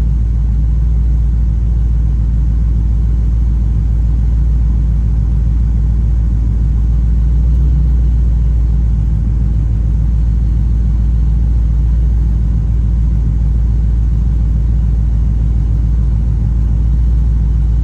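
Ford Crown Victoria's 4.6-litre V8 idling steadily with a low rumble while it warms up.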